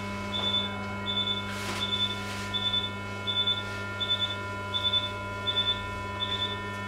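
Operating-room electronic equipment beeping at a steady pace of about three short high beeps every two seconds, over a steady electrical hum and whine.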